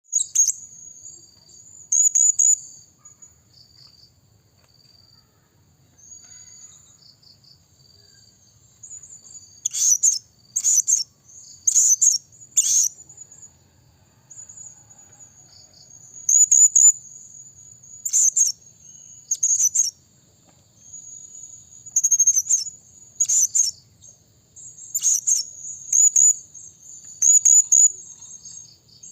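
Blue-crowned hanging parrot (serindit) giving shrill, very high-pitched calls in short bursts, often two or three in quick succession, with a thin high trill running between them. There is a quieter stretch of softer trilling in the first third.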